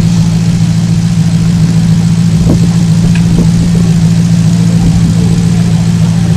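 Alfa Romeo 8C engine idling steadily with an even, unchanging note.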